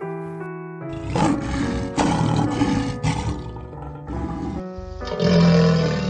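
Two rough growling roars over steady background music. The first runs from about a second in to about four and a half seconds. The second, lower-pitched and louder, starts near five seconds and comes from a crocodile.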